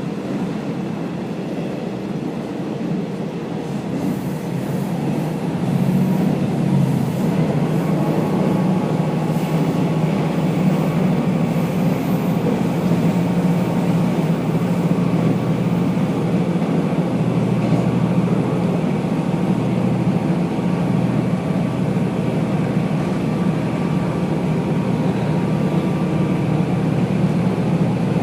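Diesel railcar running along the line, heard from inside the car: a steady running noise of the engine and the wheels on the rails. It grows louder about five seconds in and then holds.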